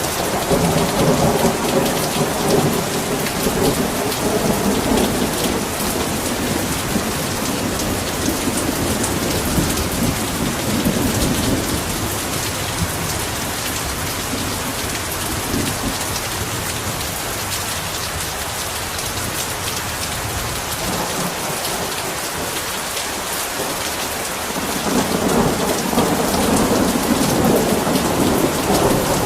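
Heavy rain falling steadily, a dense even hiss, with a low rolling rumble of thunder underneath that dies away partway through and swells back in near the end.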